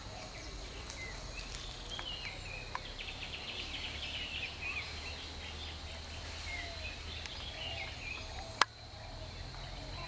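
Outdoor ambience of several birds calling with short chirping, rising and falling notes over a steady high tone. A single sharp click sounds about a second and a half before the end.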